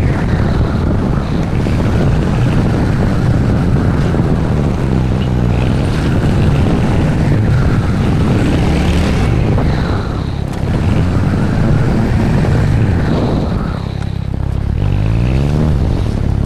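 Royal Enfield Hunter 350's single-cylinder engine and exhaust running under way. Twice the sound drops briefly as the throttle eases off, and after the second drop the engine note climbs as the bike pulls away again.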